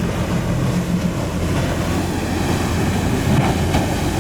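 Steady low rumble of wind buffeting the microphone over the wash of ocean surf.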